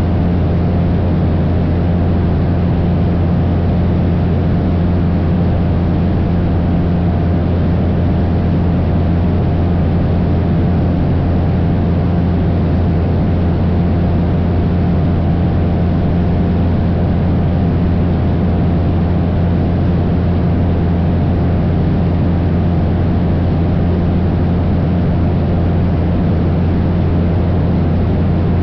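Cessna 172's piston engine and propeller droning steadily in flight, a constant low hum that holds the same pitch and loudness throughout.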